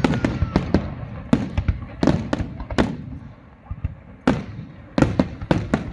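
Fireworks display: aerial shells bursting in quick, uneven succession, about a dozen sharp bangs, each with a short rumbling tail. There is a brief lull partway through before another cluster of bursts.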